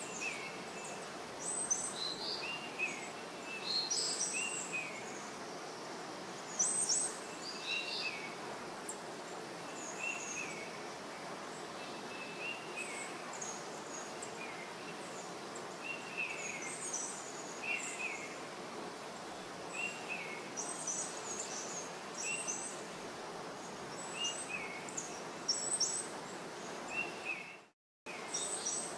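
Birds chirping over a steady background hiss, short chirps repeating every second or two. The sound cuts out briefly near the end.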